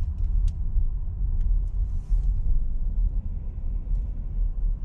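Car running at low speed, heard from inside the cabin as a steady low rumble of engine and road noise, with a few light clicks.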